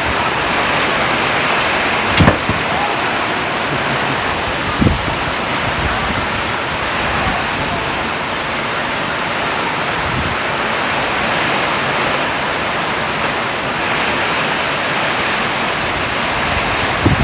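Heavy rain pouring down in a steady, loud rush, with two brief low thumps, a couple of seconds in and again about five seconds in.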